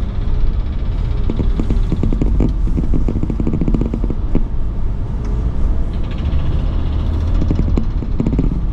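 Car driving, with a steady low road and engine rumble heard from inside the cabin and many small clicks and rattles.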